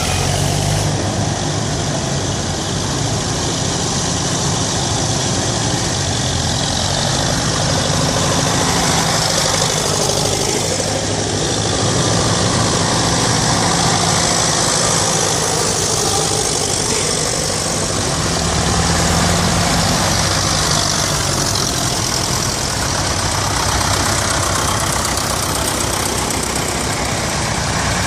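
Tractor engines running steadily: a low, even engine note under a constant wash of noise.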